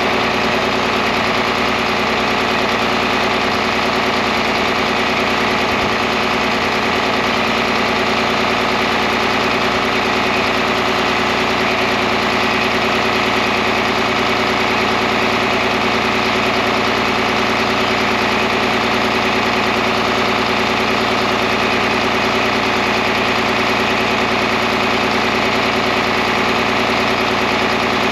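John Deere 4010 tractor engine running steadily at idle.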